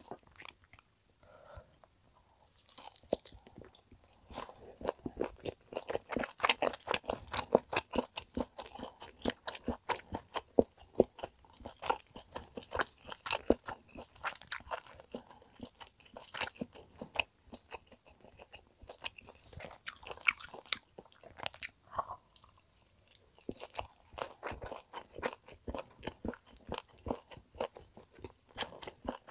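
Chewing a thick piece of seared top blade beef steak: a dense run of small clicks from the mouth, a pause of a few seconds past the middle, then more chewing.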